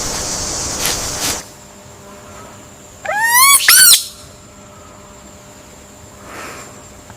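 An animal call, most likely a bird's: a loud, quick run of rising notes lasting about a second, about three seconds in. Before it, a steady high hiss with a few sharp knocks cuts off about a second and a half in.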